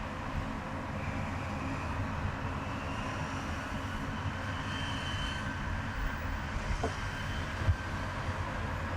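Steady road and engine noise of a car driving in highway traffic, with one brief knock about three-quarters of the way through.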